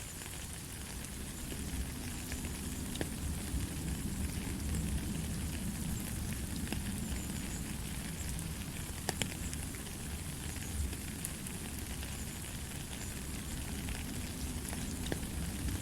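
Steady light rain, a soft even hiss with scattered sharp drop ticks and a low rumble underneath.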